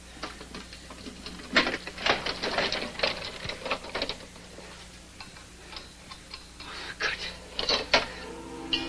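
Irregular metallic clicks and taps of hand tools fitting an oxygen tank valve to a diving regulator. A quick run of clicks comes between about one and a half and four seconds in, and a few louder taps come near the end.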